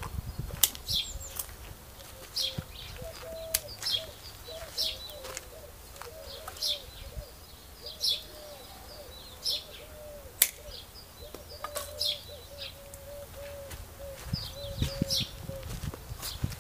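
Small birds chirping, short high calls repeating about once a second, with a few sharp clicks among them.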